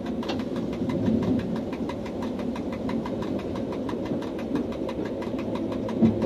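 Electric commuter train running, heard from inside the driver's cab: a steady low running rumble with an even, fast ticking of about five a second. A single sharper knock comes near the end.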